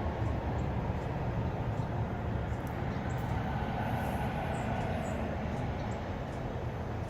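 Steady low rumble of a truck running, with an even haze of noise over it and no sharp events.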